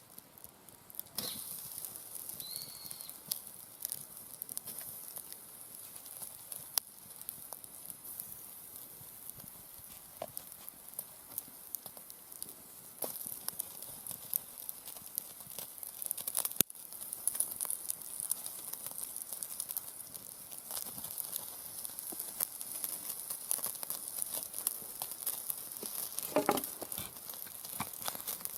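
Slices of pork loin sizzling on a grill over a wood fire pit: a steady high hiss with many small pops and crackles.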